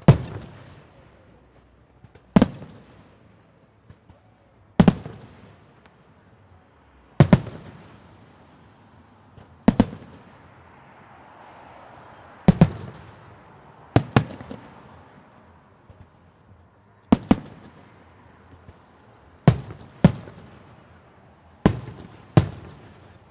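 Fireworks bursting: about a dozen sharp bangs, one every two to three seconds with a few coming in quick pairs, each trailing off in a rolling echo.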